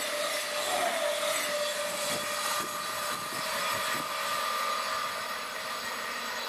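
Passenger train passing close by and running away down the track, its rushing noise carrying a faint steady whine and easing off toward the end.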